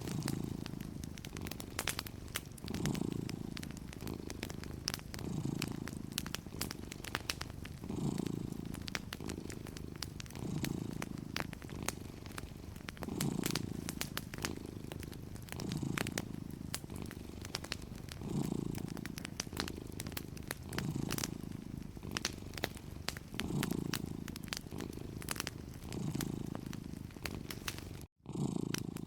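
A cat purring steadily, swelling and fading with each breath about every two and a half seconds, over the light crackle and pops of a wood fire. The sound cuts out for a moment near the end.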